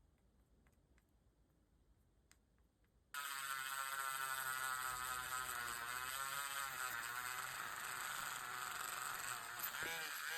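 Near silence with a few faint clicks, then about three seconds in a small motor starts abruptly and runs with a buzzing whine whose pitch wavers.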